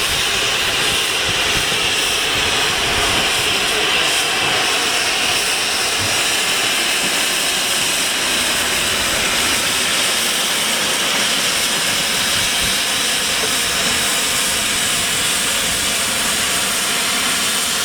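Steam locomotive hissing steam, a loud steady hiss with no exhaust beats.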